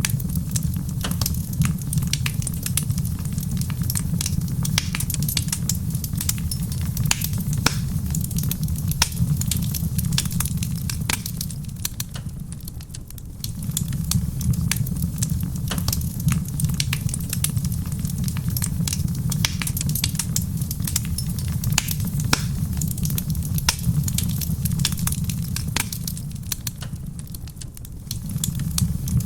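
Wood fire crackling in a stone fireplace, with frequent sharp pops and snaps over a low rumble. The rumble fades away briefly twice, about halfway through and near the end.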